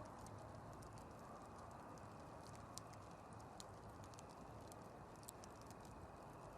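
Campfire crackling faintly: scattered sharp pops and ticks from the burning wood over a steady low hiss, with a few louder pops about three, three and a half and five seconds in.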